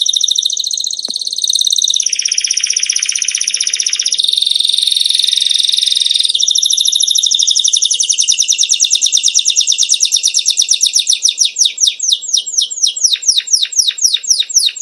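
A songbird singing a long, varied song: a fast high trill for about two seconds, then buzzier rattling phrases, then a long run of rapid repeated notes that slows into separate downward-sliding whistles near the end.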